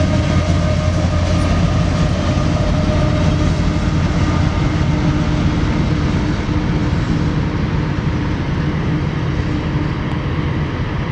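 BNSF train rolling past as its last cars go by: a steady rumble of wheels on rail with a faint steady tone over it, slowly fading in the last few seconds.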